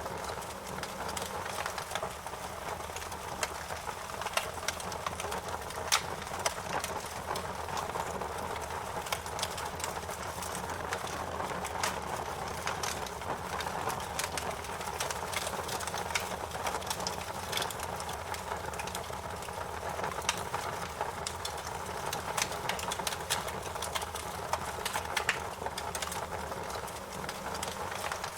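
Fireplace fire crackling: a steady hiss with irregular sharp pops and snaps, a few louder than the rest.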